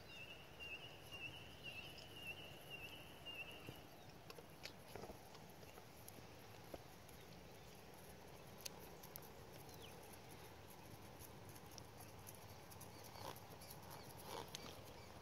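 Near silence with faint outdoor ambience: a bird's high, wavering call for about the first four seconds, then only a few faint scattered clicks.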